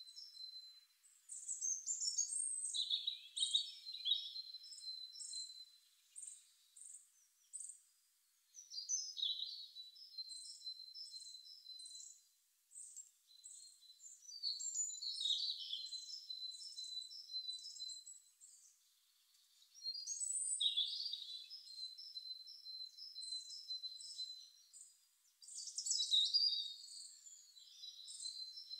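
Songbird singing: phrases of quick high chirps and trills over a thin, steady high whistle, repeating every five or six seconds.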